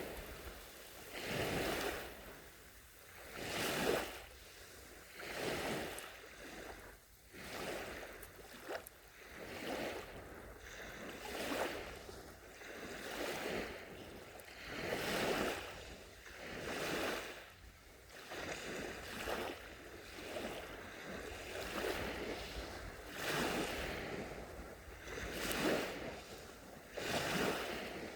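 Small, gentle sea waves washing onto a sandy shore, each swelling and hissing away in turn, about one every two seconds.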